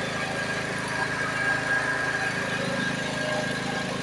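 A small engine running steadily at an even speed, with a steady high tone over its pulsing.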